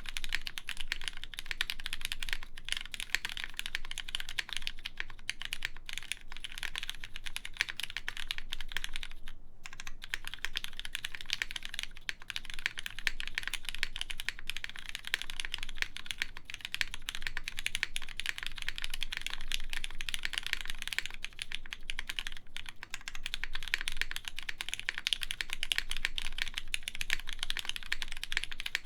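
Continuous fast typing on a mechanical keyboard with lubed Cherry MX Black linear switches, GMK keycaps and a polypropylene plate: a dense run of muted clacks with a brief pause about ten seconds in.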